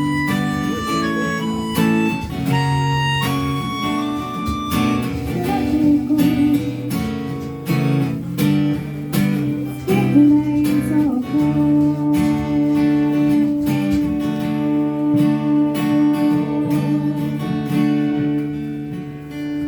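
Live instrumental passage of a song: acoustic guitar strummed in a steady rhythm under sustained melody notes, without singing.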